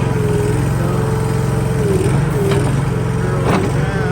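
The Honda engine of a Gravely Skidsteer 200 mini skid steer running steadily at throttle, with a few light knocks over the top.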